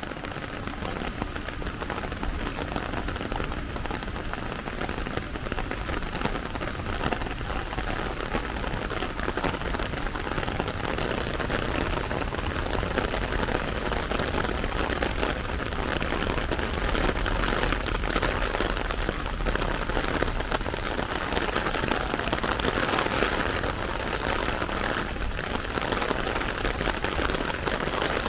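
Steady rain falling on wet pavement and pattering on a small umbrella held overhead.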